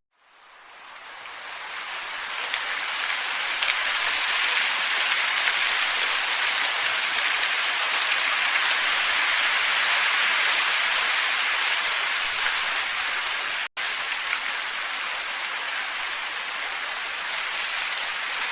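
Steady hissing wind ambience, fading in from silence over the first few seconds, with a brief dropout about two-thirds of the way through.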